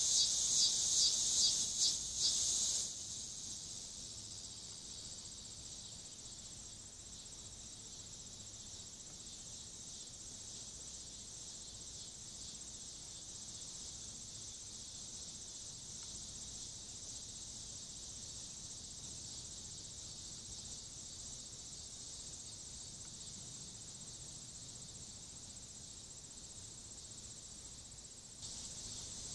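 High-pitched chorus of insects such as crickets, louder and pulsing rapidly for the first three seconds, then a steady even drone.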